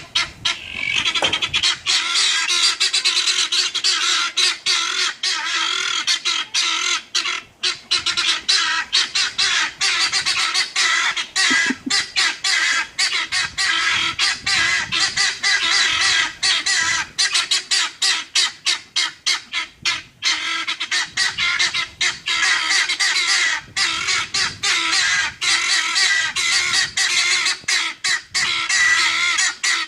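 A flock of guineafowl calling nonstop with harsh, rapid, grating squawks that overlap into a continuous racket.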